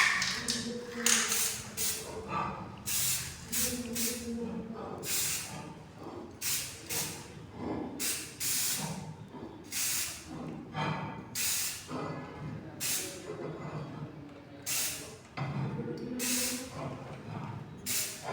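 Aerosol can of black magnetic-particle ink in solvent sprayed in short repeated hissing bursts, about one a second, onto a weld under magnetic particle testing.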